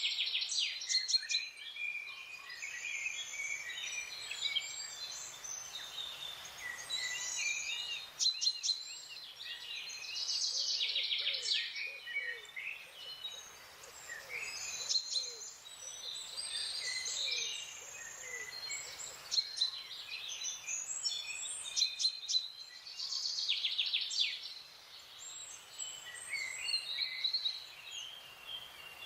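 Several wild forest birds singing and calling over one another: high chirps, whistled phrases and quick trills that come and go in bursts. Through the middle, a run of short, low notes repeats about twice a second.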